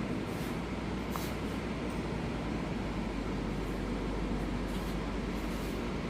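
Steady low rumbling background noise with a constant low hum, and a few faint light clicks.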